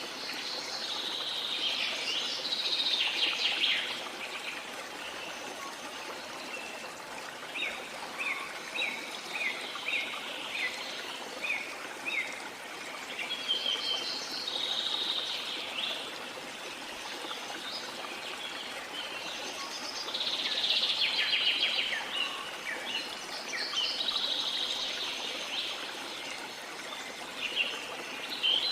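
Birds singing over a steady rush of flowing water. Bursts of song come near the start, in the middle and near the end, and in between one bird gives a run of about eight short, quick chirps.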